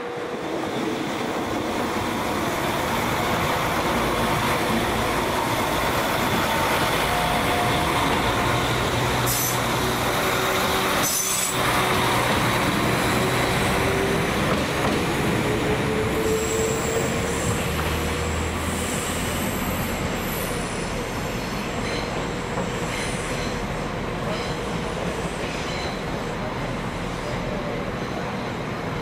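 A train moving on the track with its wheels squealing, the sound building over the first couple of seconds. There is a single sharp clank about eleven seconds in.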